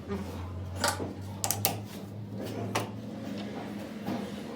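Four or five sharp metal clicks and knocks of tools and workpiece being handled over a steady low hum.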